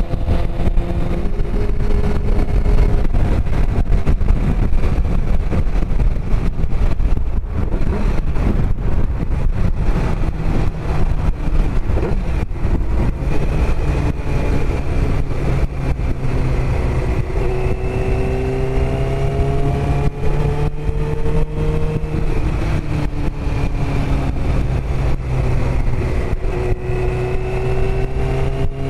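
Sportbike engine running at freeway speed under wind noise on the microphone; in the second half the engine pitch climbs slowly a few times as the bike accelerates.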